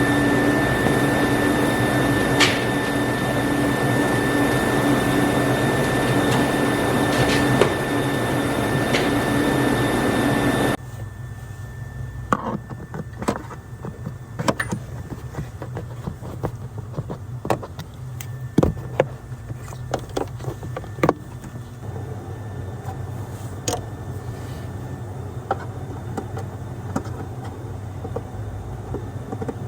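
A machine running with a steady noise and a whine, stopping abruptly about ten seconds in; after that, scattered light clicks and knocks.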